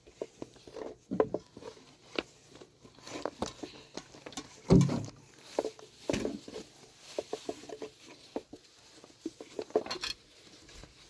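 Irregular light clicks, taps and knocks of objects being handled, with one heavier thump about five seconds in.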